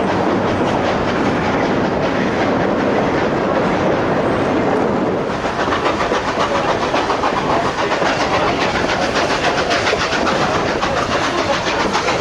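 Narrow-gauge passenger train running along the track, wheels and cars clattering steadily. About five seconds in, the clatter turns sharper and busier.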